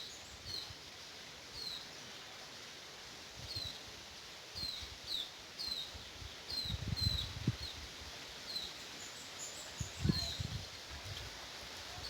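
White-eyes (pleci) calling with short, high chirps that fall in pitch, one every half second to a second, with bursts of low rumbling noise now and then.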